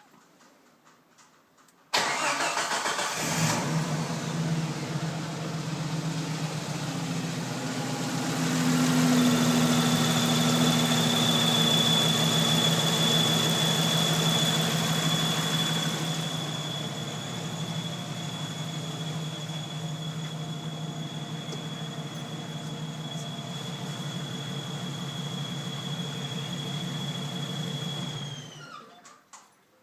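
Jeep Wrangler YJ 4.0 L straight-six engine cranked and started about two seconds in, then running, louder for several seconds before settling to a lower idle. A steady high whine joins the engine sound about nine seconds in. Near the end the engine is shut off and the whine drops in pitch as it dies away.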